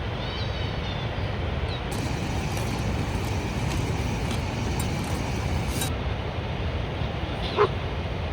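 Steady rushing background noise with faint chirps early on, and a single short, sharp dog yip near the end.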